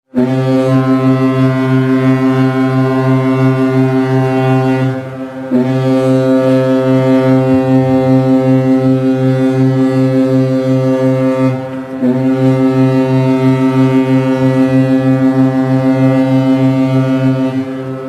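Ship's horn sounding three long, loud blasts of about five to six seconds each, with short breaks between them.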